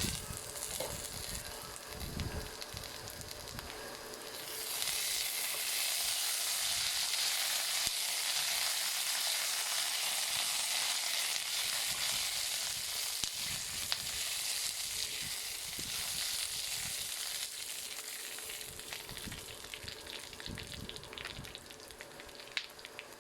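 Food sizzling in a hot pan, with a few soft knocks of stirring. The sizzle gets suddenly louder about five seconds in and dies down near the end.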